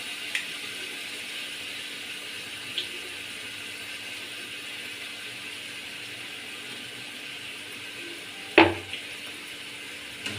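Onion, ginger-garlic and spice mixture sizzling steadily in hot oil in a kadai, with a sharp knock about eight and a half seconds in.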